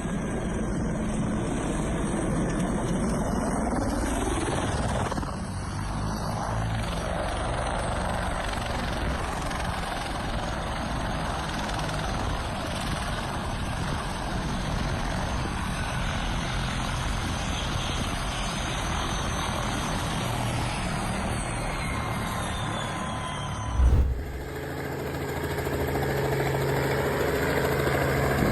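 Helicopter noise, a dense, rough rush of rotor and engine sound. About 24 s in it cuts off suddenly with a brief loud bump, and a steadier helicopter sound with a low hum follows.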